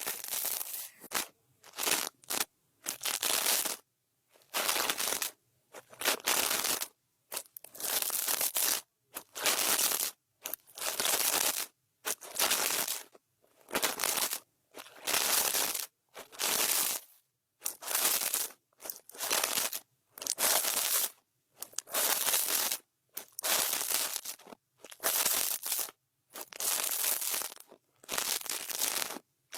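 ASMR brush strokes across the microphone: a scratchy, crinkling swish about once a second, each stroke followed by a short silence.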